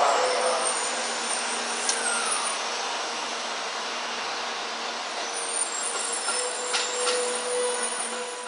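700 series Shinkansen train pulling away, its running noise fading slowly as it recedes, over a steady hum.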